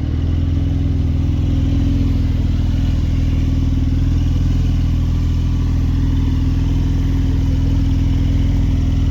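A combustion vehicle engine running close by at a steady speed, holding one even pitch with no revving.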